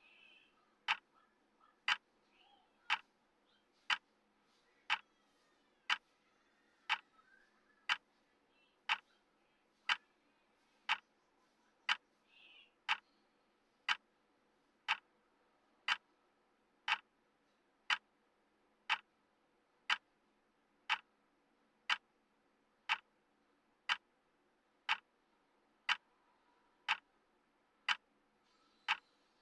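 Clock tick sound of a countdown timer: one sharp, even tick every second, steady throughout.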